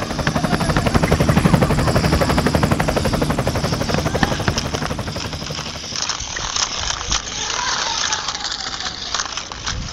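Toy remote-control helicopter's small electric motor humming, with a fast rotor chop, loudest about a second and a half in and dying away around six seconds in. After that, scattered knocks and outdoor noise.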